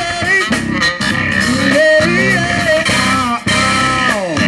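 Live band playing a funk groove without vocals: electric guitar lines that bend and slide over a steady bass line, with one long downward slide near the end.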